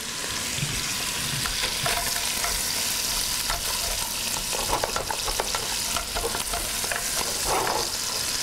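Cubes of fresh paneer cheese sizzling steadily as they fry in an enamelled cast-iron pot, with scattered short scrapes and knocks of a wooden spatula against the pot as the cubes are stirred and turned.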